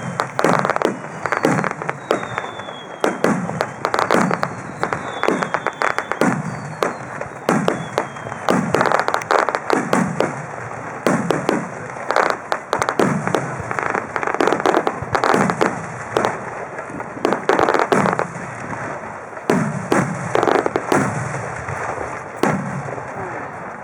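Star Mine fireworks barrage: shells bursting in quick succession, one to three bangs a second, each followed by a rolling echo. Faint falling whistles run under the first few seconds.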